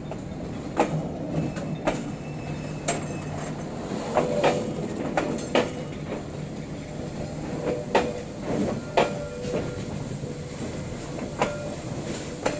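Passenger train coaches rolling slowly past, their wheels knocking over the rail joints in irregular sharp clacks, with a few short squeals and a steady low hum underneath.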